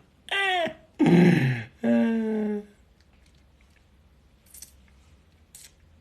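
Three short loud vocal cries, with no words in them: the first falls in pitch, the second is rougher and louder, and the third is a briefly held steady tone. Then only faint clicks.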